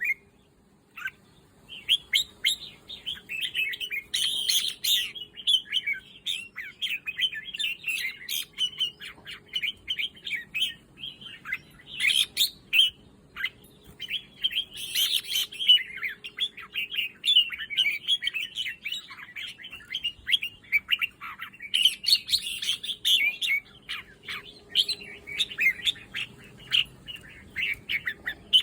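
Red-whiskered bulbul chirping and singing, a near-continuous run of quick bright notes with brief pauses, beginning about a second and a half in.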